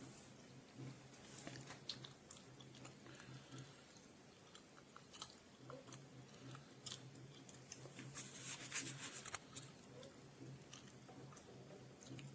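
Near silence with scattered faint clicks and crackles over a low, on-and-off hum; a brief cluster of crackles comes about eight to nine seconds in.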